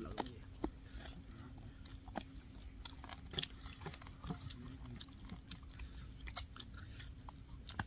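A person chewing chicken lollipop: irregular, scattered short mouth clicks and smacks, with a faint steady hum beneath.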